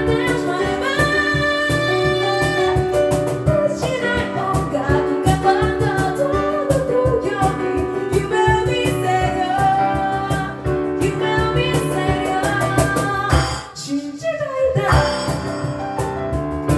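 An a cappella vocal group singing in harmony, with a sung bass line and vocal percussion keeping a steady beat; near the end the beat drops out briefly under a falling vocal glide, then comes back in.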